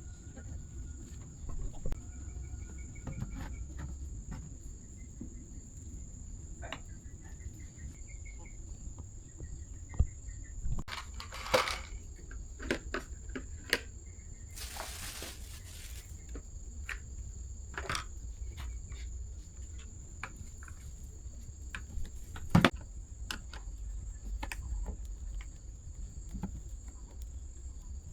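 Steady high-pitched insect chirring, likely crickets, with scattered clicks and knocks from handling and taking apart an electric rice cooker. A brief hiss comes about halfway through, and the loudest knock is near the end.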